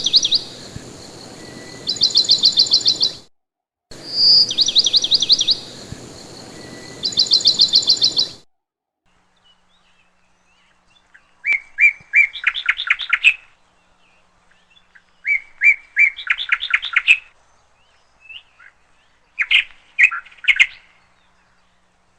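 A songbird singing repeated phrases, each a few clear notes running straight into a quick trill, with pauses of a couple of seconds between phrases. A steady hiss lies under the song for the first third.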